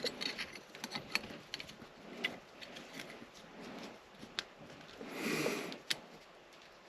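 Faint scattered clicks and taps of hands handling a bathroom exhaust fan housing and its wiring, with a short breathy hiss about five seconds in.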